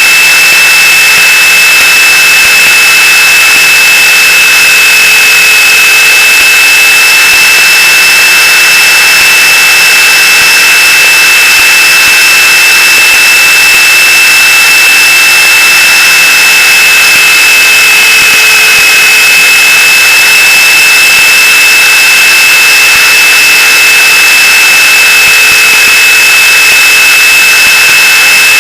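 Gaui Hurricane 425 electric RC helicopter running with a steady high-pitched whine from the motor and gear drive over the rush of the rotors, very loud and even throughout.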